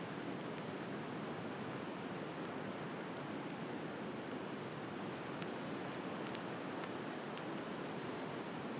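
Wood fire crackling with scattered sharp pops over a steady rush of sea waves.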